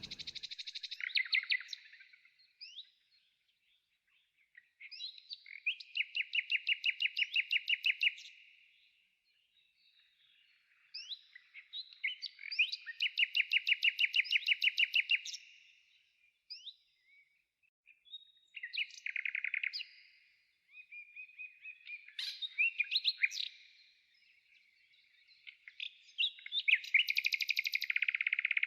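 Songbird singing in bouts of chirps, several of them running into a fast even trill lasting two or three seconds, with short pauses between bouts.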